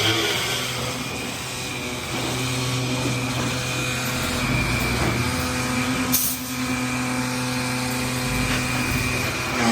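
Delivery truck engine running steadily. A brief hiss of released air comes about six seconds in.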